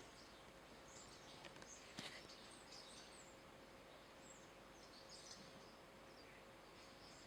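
Near silence with faint, scattered high bird chirps from the yard over quiet room tone.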